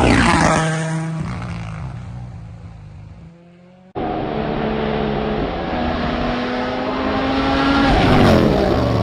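A rally car passes at speed, its engine note dropping in pitch as it fades away over about four seconds. The sound then jumps abruptly to a second rally car approaching, its engine note rising, and passing close about a second before the end.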